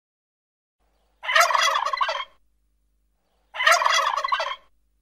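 Wild turkey tom gobbling twice, each gobble about a second long, the first about a second in and the second about halfway through.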